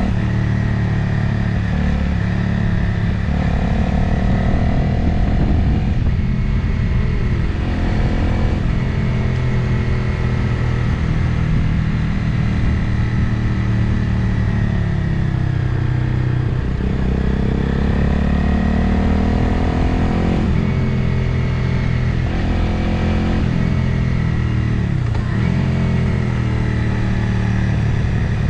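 Motorcycle engine running under way, with wind noise on the on-bike microphone; the engine note rises and falls several times with throttle and gear changes.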